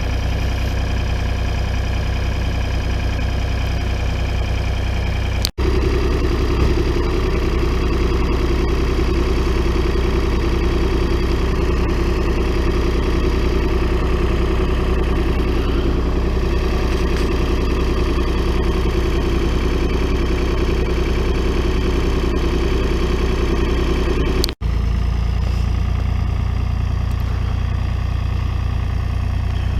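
Tractor engine running steadily while trying to pull free of deep mud. Between two abrupt cuts, a fuller, higher note is heard in the middle stretch.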